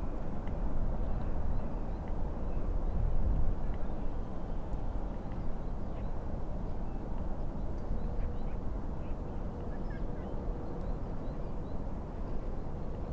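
Wind rumbling and waves on the lake, with scattered short bird calls over it.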